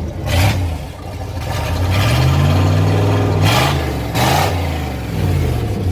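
Cadillac HT4100 4.1-litre V8 running through a modified exhaust, revved up once over about two seconds and settling back toward idle.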